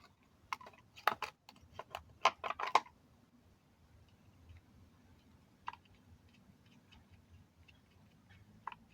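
A quick run of sharp clicks and knocks in the first three seconds, then a few faint single clicks, like a hard plastic-and-metal object being handled.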